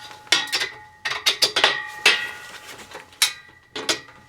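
Metal tube pieces of a kayak rack frame knocking together with ringing clanks, repeatedly, as a horizontal crossbar is pushed and worked into place.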